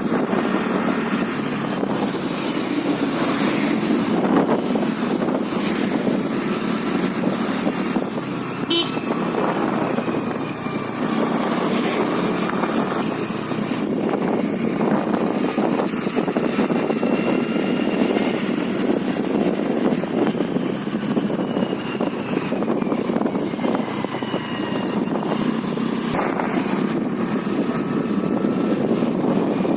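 Honda Dio scooter running steadily at road speed, a continuous engine and road noise heard from the rider's position.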